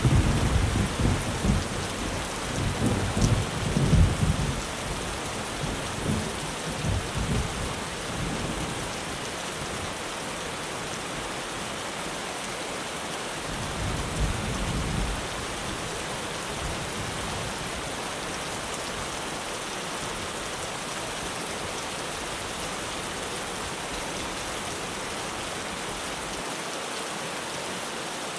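Rain falling steadily on a tin roof, with thunder rumbling low over the first several seconds and again briefly about halfway through.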